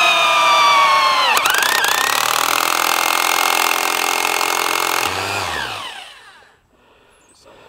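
Electric power saw cutting board: the motor's pitch sags as the blade loads up, there is a sharp crack about a second and a half in, then it runs steadily. Around five seconds in it is switched off and winds down with falling pitch.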